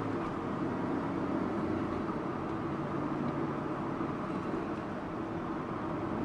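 Subaru Impreza Sports Wagon driving at a steady pace: an even hum of its flat-four engine mixed with tyre and road noise.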